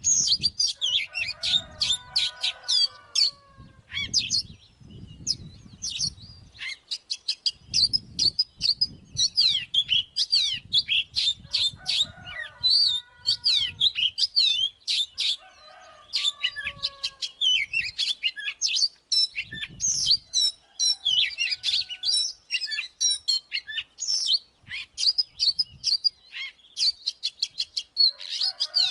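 Oriental magpie-robin singing: a near-continuous stream of fast, varied sweeping whistles and trills, with a few lower, buzzier notes mixed in.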